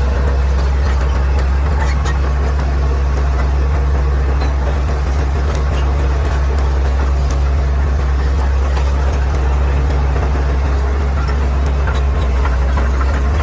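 Caterpillar D6R XL bulldozer's diesel engine running steadily with a deep, even hum.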